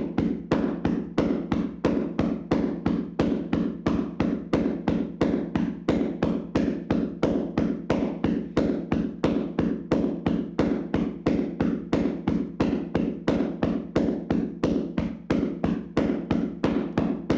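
Hands slapping a person's body in a vigorous percussive massage: a steady run of strikes of even force, about three a second.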